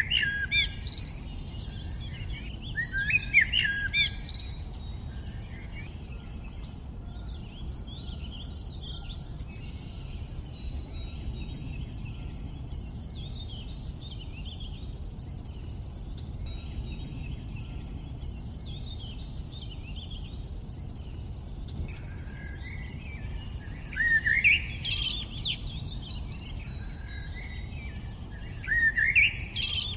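Several songbirds singing and chirping in quick, warbling phrases, with louder bursts of song at the start, about three seconds in, around 24 seconds in and near the end. A low steady background rumble runs underneath.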